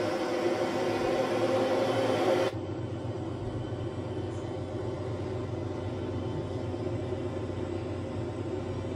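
Steady rumbling noise that drops abruptly about two and a half seconds in to a quieter, lower rumble.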